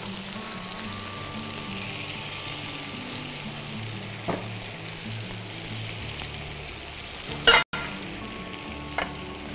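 Chicken tikka pieces sizzling steadily in olive oil in a nonstick frying pan, with a few light clicks and one sharp knock about seven and a half seconds in.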